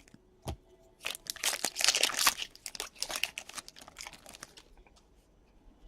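Crinkling and rustling as trading cards are handled. It is densest from about one to two and a half seconds in, followed by scattered light clicks.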